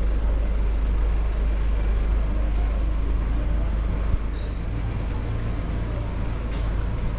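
Steady rumble of street traffic, motor vehicles passing on a town road, with a deep low drone throughout.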